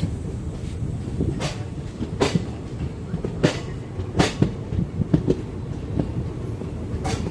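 Freight train wagons rolling past, a steady low rumble broken by sharp, irregular clacks of wheels crossing rail joints.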